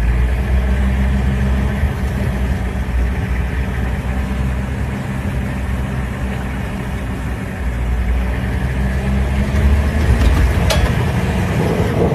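Vehicle engine idling steadily, a low even hum, with a brief click near the end.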